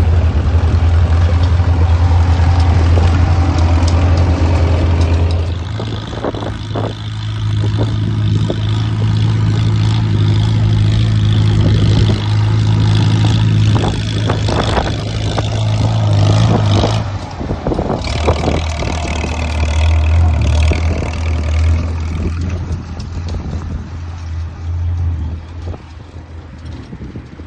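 Antique farm tractor engine running steadily, its low drone shifting in pitch and loudness a couple of times and fading near the end.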